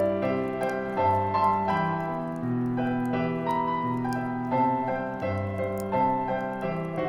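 Solo piano playing a slow, gentle arrangement of a Christmas song, with faint crackles of a wood fire ticking underneath.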